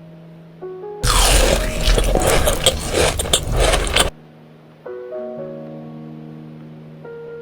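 Soft piano-like notes sounding one after another, broken by about three seconds of loud, rough scraping, crunching noise that starts and stops abruptly. The notes come back after the noise.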